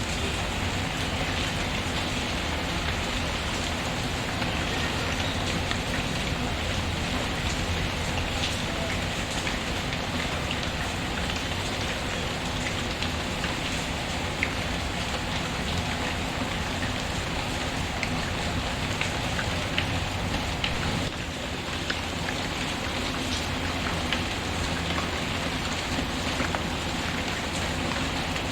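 Steady rain hiss mixed with a wood fire crackling, scattered small snaps and ticks over the even wash of rain.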